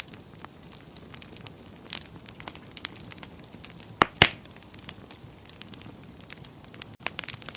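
Wood fire crackling in a fireplace: scattered small snaps and ticks, with two louder pops close together about four seconds in.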